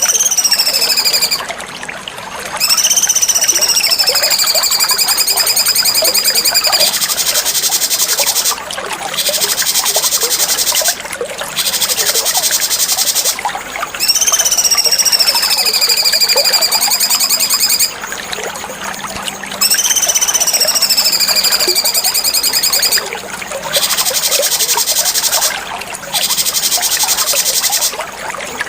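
Cucak cungkok bird song: long, high, buzzy whistled phrases, each sliding slightly downward, repeated several times with short breaks between them.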